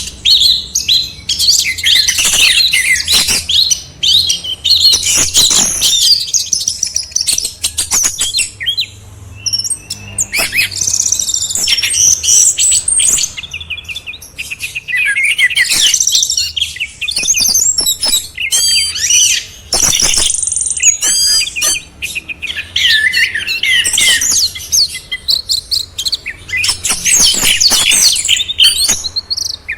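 Orange-headed thrush singing a loud, fast, varied song of whistles, trills and chattering phrases, with only brief pauses.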